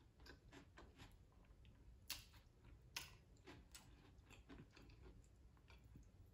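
Faint chewing: a person eating, with many small soft mouth clicks and two sharper clicks about two and three seconds in.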